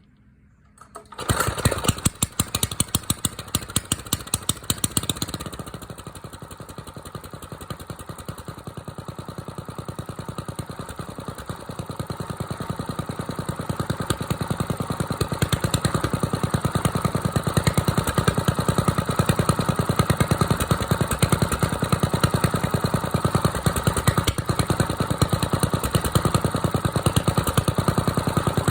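Small choke-equipped gasoline engine cold-starting: it catches about a second in and runs unevenly with loud pulses for a few seconds. It then settles into a fast, even idle on choke that grows gradually louder and steadier.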